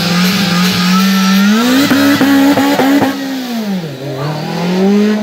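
Rally car engine accelerating hard, its pitch rising and holding at high revs with a few sharp cracks. The revs drop away about three seconds in, then build again near the end.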